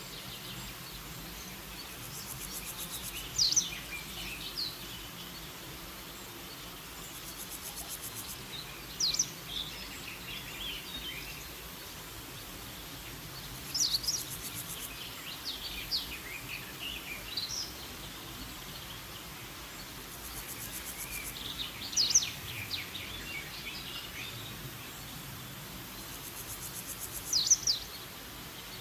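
Woodland birdsong ambience: a songbird repeating short, quick phrases of high, falling notes about every five seconds over a steady background hiss, with a faint high insect-like buzz in places.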